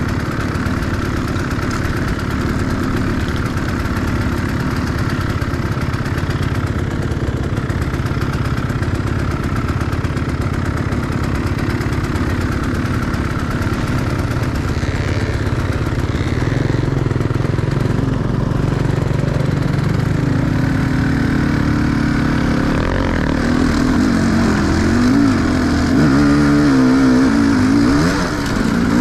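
Enduro motorcycle engine running steadily, then revving up and down over and over and getting louder from about two-thirds of the way in.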